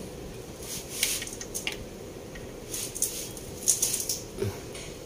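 Metal tools and parts clinking and clicking at irregular intervals during hand work on a car engine, over a steady low hum.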